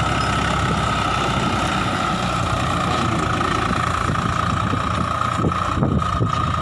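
Swaraj 744 FE tractor's three-cylinder diesel engine running steadily, with a steady high whine over it.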